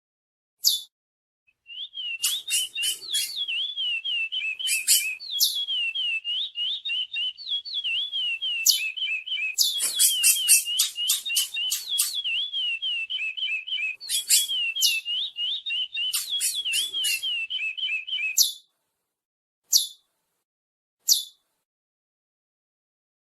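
A pair of curiós (chestnut-bellied seed finches) singing: a long, fast warbling song with sharp high chirps mixed in, then a few single chirps near the end.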